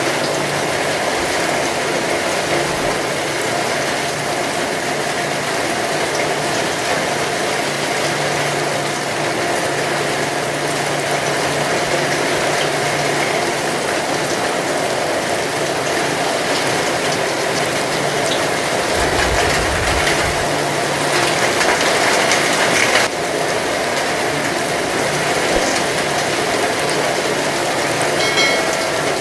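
Heavy rain falling steadily, an even hiss of downpour, with a faint low hum underneath.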